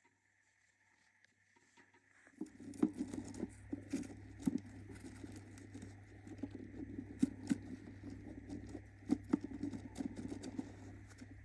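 Budgie moving about in its nest box: irregular scratching and pattering with sharp clicks, starting about two seconds in, over a steady low hum.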